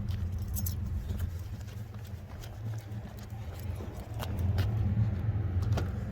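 Highway traffic rumbling by, swelling as a vehicle passes about four to five seconds in.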